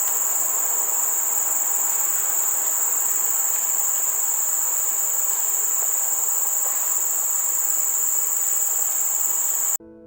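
A steady, high-pitched insect chorus drones without a break over an even background hiss, then cuts off abruptly near the end.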